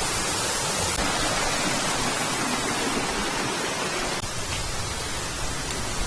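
Waterfall rushing, a steady full hiss of falling water that eases slightly about four seconds in.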